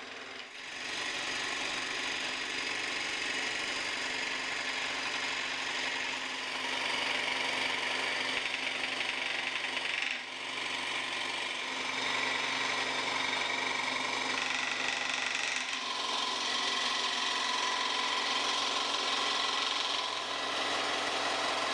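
Scroll saw running steadily, its blade cutting hard oak, with a brief break about halfway through.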